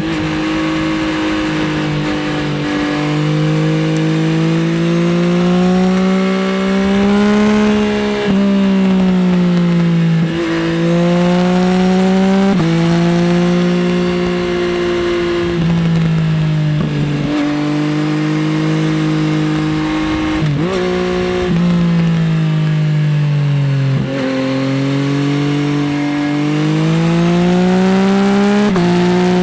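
Yamaha XSR900 SP's inline-three engine through an Akrapovič exhaust, riding hard: revs climb and fall repeatedly as the bike accelerates and changes gear, with sudden pitch drops at upshifts about eight and ten seconds in and falling revs followed by renewed climbs later on.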